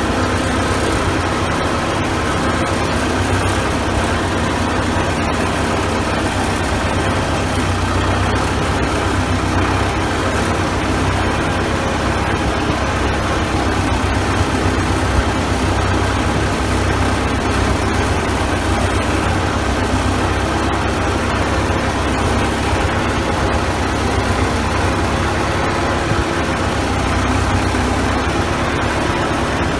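Case 580B Construction King backhoe's four-cylinder diesel engine running steadily.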